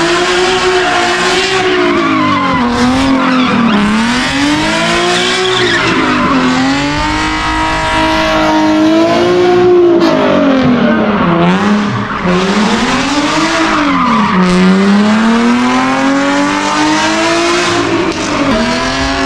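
A performance car's engine revving hard and dropping back again and again, its pitch rising and falling every one to two seconds, with tyres squealing and skidding.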